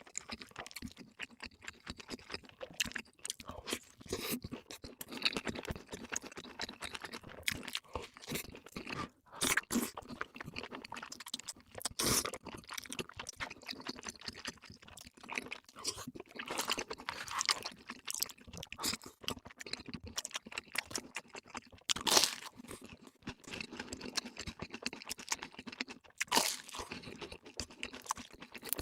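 Close-miked eating: a person biting and chewing crunchy fast food, with irregular loud crunches and wet chewing throughout. The strongest bites come about 12, 22 and 26 seconds in.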